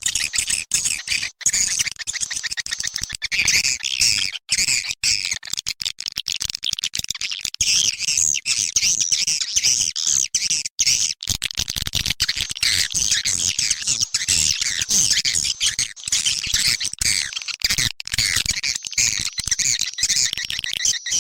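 Swiftlet calling sound used to lure edible-nest swiftlets: a loud, continuous mass of high-pitched twittering chirps with rapid clicks, without pause.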